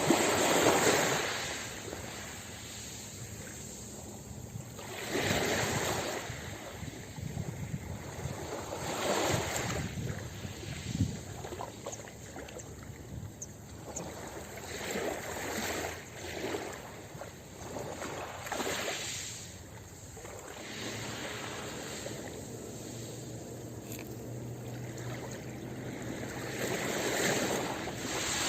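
Ocean waves breaking on a beach, each wave swelling into a rush of surf and then fading, about every four to six seconds.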